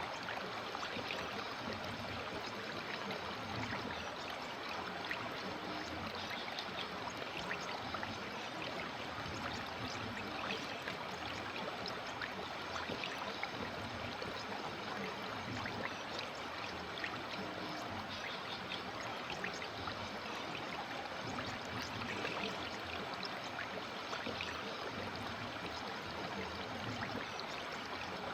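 River water running over stones in a steady, even rush and trickle.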